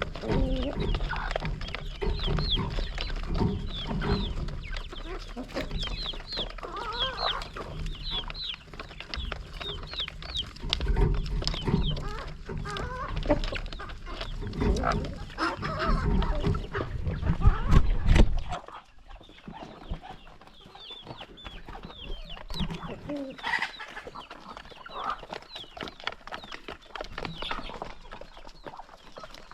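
A flock of chickens clucking as they are fed, with many short high calls throughout. A low rumble under the calls cuts off about two-thirds of the way through, leaving the clucking quieter.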